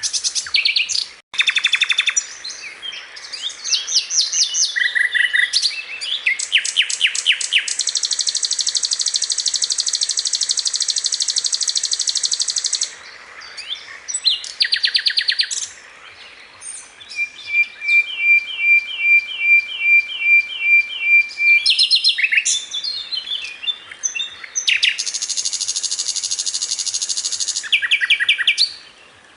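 A sikatan londo flycatcher singing continuously, with phrases of fast, rattling trills alternating with runs of evenly repeated chirps. There are short breaks about 13 and 16 seconds in.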